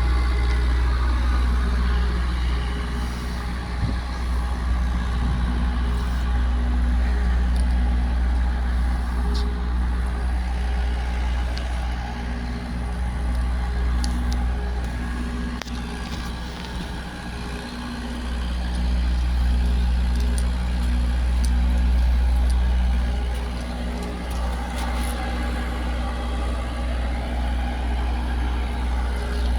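A truck's diesel engine idling steadily, with a deep rumble, easing off a little about halfway through before picking up again.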